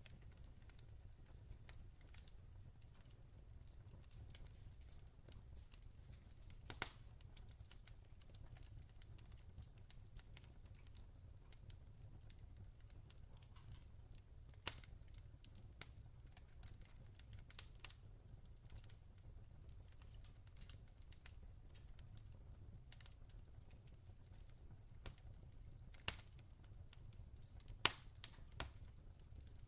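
Log fire crackling faintly, with scattered small ticks and a few louder pops: about seven seconds in, around fifteen seconds, and twice near the end. A low steady rumble sits underneath.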